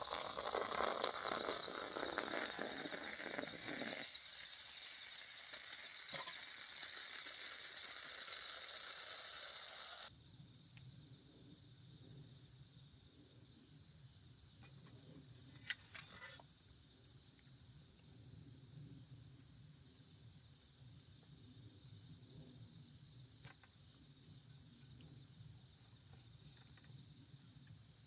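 A steady hiss for about the first ten seconds stops abruptly. Then crickets chirp in a fast, high pulsing trill that breaks off briefly now and then.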